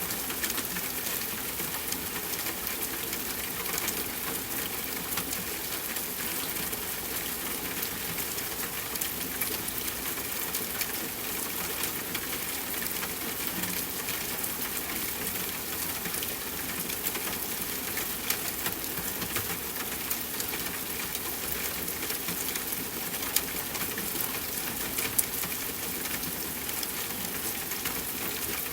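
Steady rain hiss with a wood fire crackling over it, and a few sharper pops in the second half.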